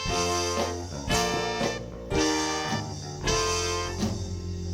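Live band music with a horn section playing short punchy chords about once a second over bass and drums, with no singing.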